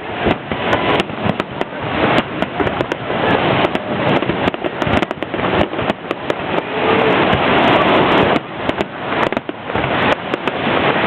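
New Year fireworks display: many sharp bangs and crackles in quick succession over a continuous dense rumble of bursts.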